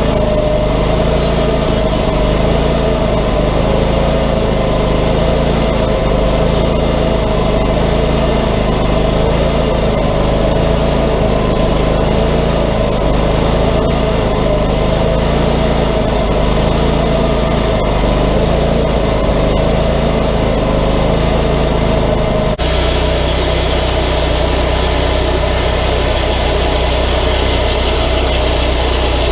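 Wood-Mizer LT40 portable band sawmill running steadily under its engine. About twenty-two seconds in the sound changes abruptly to a different steady engine sound.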